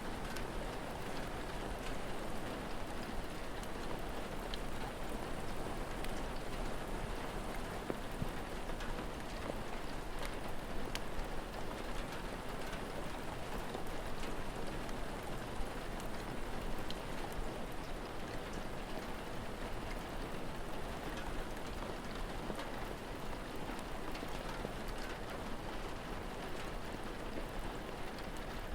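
Steady rain falling with an even hiss, dotted with scattered small sharp ticks and crackles from a wood fire.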